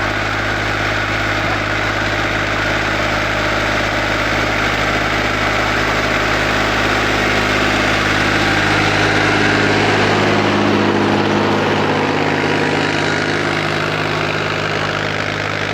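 Eicher tractor's diesel engine running steadily, growing a little louder towards the middle and easing off slightly near the end.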